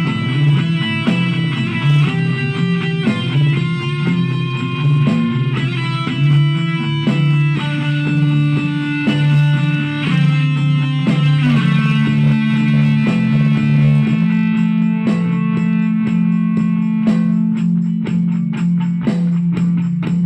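Guitar playing: single picked notes ringing over a held low note, with the picking growing quicker in the last few seconds.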